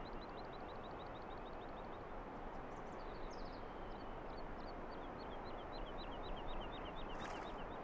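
Evening outdoor ambience: a steady background hiss under a small bird calling in a rapid run of short, high chirps, about five a second, with a brief break about two seconds in. A short rush of noise comes near the end.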